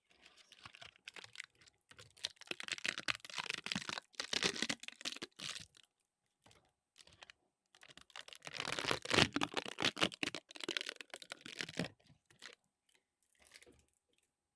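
Water splashing and crackling in two long bursts, the first about six seconds, the second about four, with a short pause between and a few faint splashes near the end.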